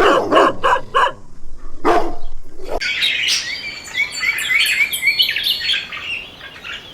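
A small dog yapping in a quick run of barks, with one more bark near two seconds in. Then a chorus of small birds chirping.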